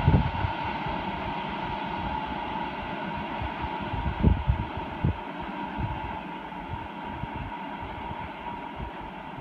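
Receding freight tanker train: its rumble and a steady high hum from the rails slowly fade. Low thumps of wind on the microphone come at the start and again about four seconds in.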